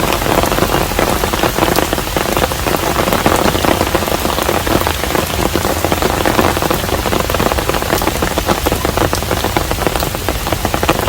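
Steady rain falling on a hanok, a traditional Korean house, with a dense patter of individual drops.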